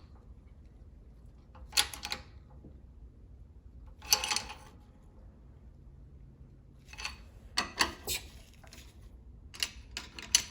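Scattered short clatters and knocks of metal parts and tools being handled and shifted at a shop press, with quiet gaps between them; the loudest come about 2 and 4 seconds in, with a cluster of several near the end.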